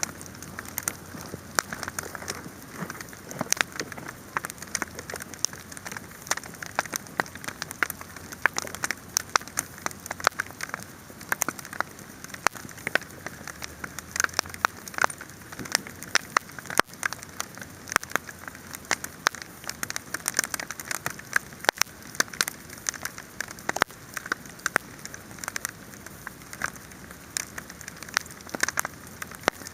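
Wood fire burning, with dense, irregular crackles and pops over a steady hiss.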